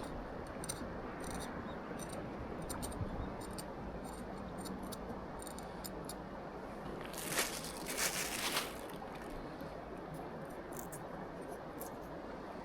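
Camping knife working on a tomato: light, sharp ticks and small scrapes scattered throughout, with two louder scraping noises about seven and eight seconds in, over a steady hiss.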